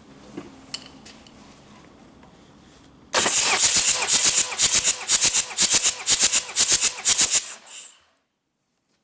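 Hyundai D4BH four-cylinder diesel engine cranked on the starter for a compression test, with a loud pulse about three times a second. It starts about three seconds in, runs for about four seconds and stops suddenly.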